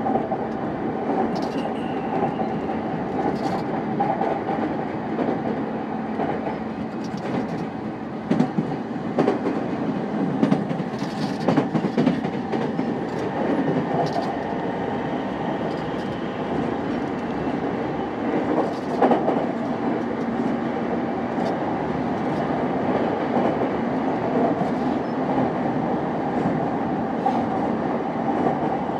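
JR East E233 series 5000 electric train running along the track, heard from inside the car: a steady rumble of wheels on rail over a constant hum, with sharp clicks of the wheels crossing rail joints, clustered around the middle.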